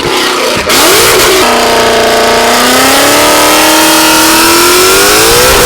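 800-horsepower Mustang's engine revved hard and held high through a very loud exhaust, the pitch rising about a second in, sagging a little, then climbing again near the end.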